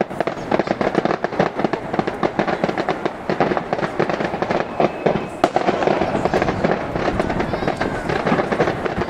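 Fireworks fired from a tower top, a dense, unbroken stream of rapid crackles and pops, many per second.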